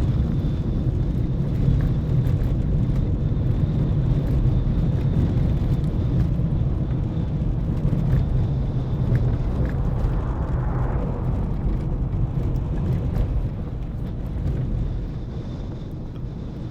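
Car driving over a rough, broken road surface: a steady low rumble of tyres and suspension with a few small knocks, easing off somewhat near the end.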